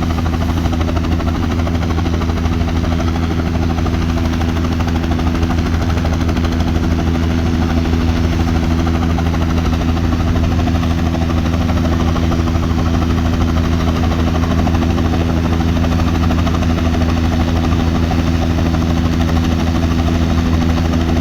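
Helicopter running on the ground before take-off, its engine and rotor making a loud, steady drone.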